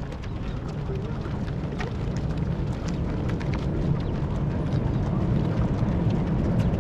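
Steady low rumble of wind on the microphone, growing slowly louder, with many faint quick taps of runners' footfalls passing on the road.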